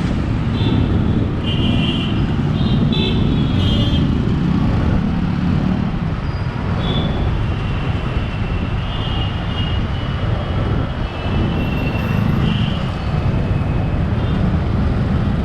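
Riding noise from a Yamaha MT-15's 155 cc single-cylinder engine and wind on the camera's built-in microphone, a loud steady low rumble. Other vehicles' horns honk several times in short beeps over the traffic.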